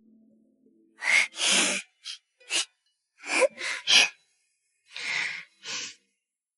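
A person's breathy vocal sounds: about nine short, noisy breaths or unvoiced bursts between about one and six seconds in, with silence between them.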